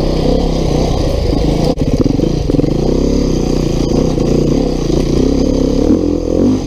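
Beta 390 RR-S single-cylinder four-stroke dirt bike engine under load, its revs rising and falling with short bursts of throttle. It dips briefly just under two seconds in.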